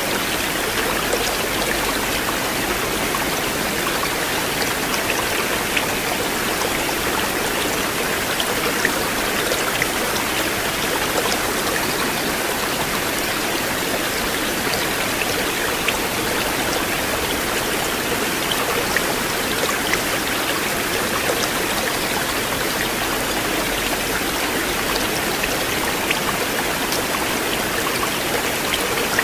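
River water flowing in a steady, continuous rush, with scattered faint short ticks over it.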